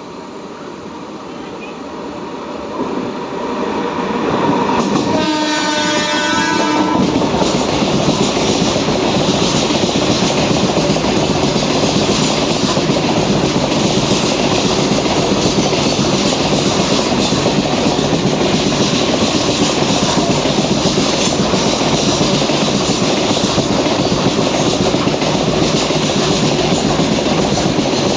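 Alstom WAG12B electric freight locomotive approaching and sounding its horn for about two seconds, then running through at speed with its long BOXNHL open-wagon rake clattering and rumbling over the rails and joints.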